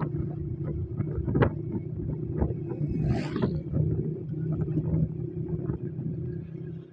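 Honda 125cc motorcycle's single-cylinder four-stroke engine running steadily at cruising speed, with road and wind noise. A sharp knock comes about a second and a half in, and a brief hiss about three seconds in.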